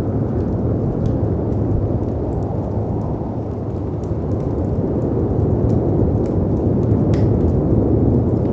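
A deep, steady rumble of storm wind and sea waves, swelling slightly in the second half, with faint crackles and pops from a wood fire over it, one a little sharper about seven seconds in.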